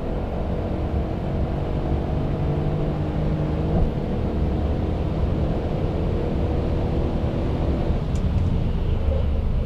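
Mercedes-Benz E63 AMG S-Model's twin-turbo V8 running hard on a hot lap, with a steady low rumble of tyre and road noise under the engine note. About eight seconds in the engine note drops away as the driver lifts off.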